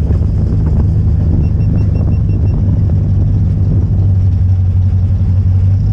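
Crown Victoria race car's engine running steadily with a deep, even drone. About one and a half seconds in, a quick run of about six high beeps sounds over it.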